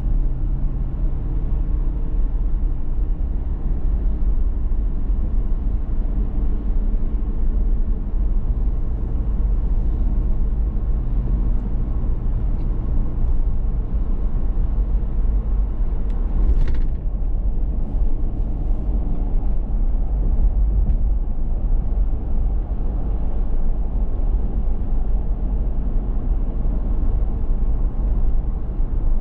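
Driving noise of a 2019 Toyota 4Runner TRD Pro on the road: a steady low rumble of engine and tyres, with a clear engine hum through the first half. A brief hiss cuts across it a little past the middle.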